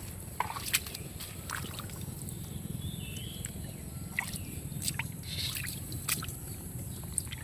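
Small splashes, sloshes and drips of shallow water as hands feel through a rainwater drain for fish.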